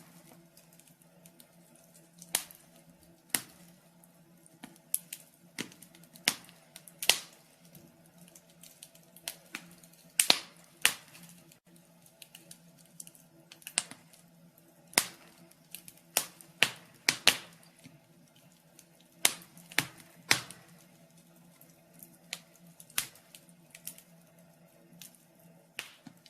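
Wood fire crackling: irregular sharp pops and snaps, roughly one every second or so, some louder than others, over a faint steady low hum.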